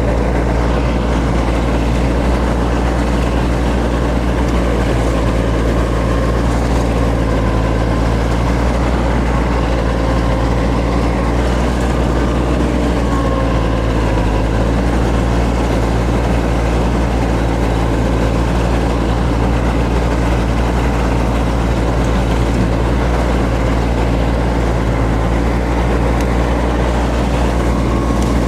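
John Deere X748 garden tractor's three-cylinder diesel engine running steadily during a mowing test run with freshly sharpened blades.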